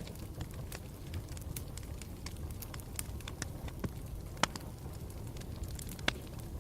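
Campfire burning with a steady low rumble and frequent irregular crackles and snaps, with two louder pops, one a little past halfway and one near the end.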